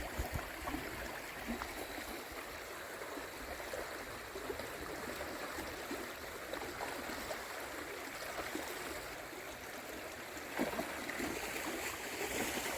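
Stream water flowing steadily, an even rushing hiss with a few faint ticks.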